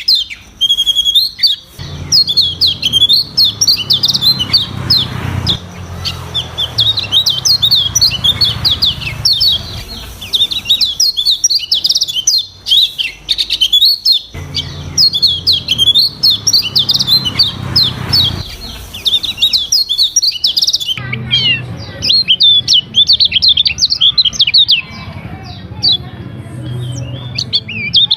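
Kecial kuning (a yellow white-eye) singing a fast, varied twittering song of high chirps and trills, nearly continuous with brief pauses. A low hum underlies parts of it, coming and going.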